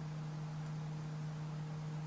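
A steady low hum with faint hiss, unchanging throughout: the background noise of the narration recording between spoken lines.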